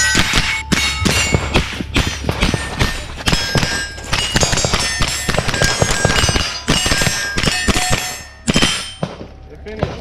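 Rapid rifle fire at steel plate targets: a quick run of sharp shots, each hit followed by the bright ringing clang of struck steel. The string stops about a second before the end.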